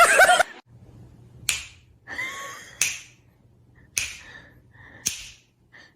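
Four sharp slaps or taps, evenly spaced about a second and a bit apart, with a short squeaky sound between the first two.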